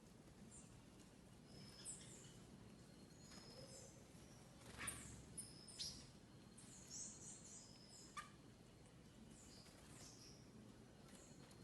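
Small birds giving short, high, thin calls, many of them falling in pitch, scattered and busiest in the middle; faint.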